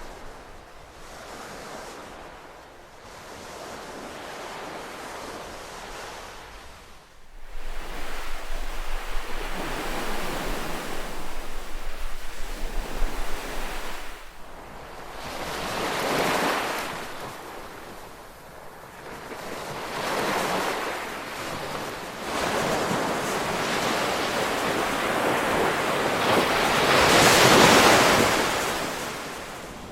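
Ocean waves breaking and washing in repeated swells, each one rising and falling away, the loudest near the end. From about seven seconds in until about fourteen, a jagged low rumble of wind on the microphone sits under the surf.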